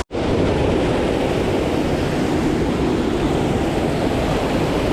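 Steady rush of a flowing creek mixed with wind buffeting the microphone. The sound drops out for a split second at the very start.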